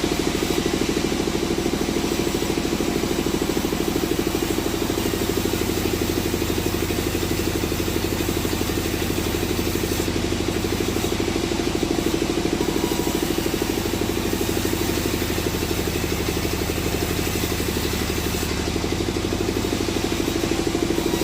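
Sawmill machinery running steadily, a loud engine-like drone with a fast even pulse that holds unchanged throughout.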